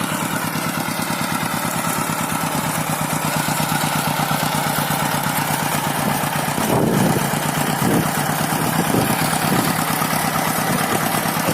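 Small diesel engine of a two-wheel paddy-field hand tractor running with a fast, even chug, with a few brief surges in engine sound in the second half.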